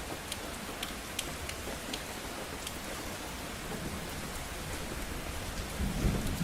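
Steady rain with individual drops pattering sharply on a hard surface, and a low thunder rumble swelling near the end.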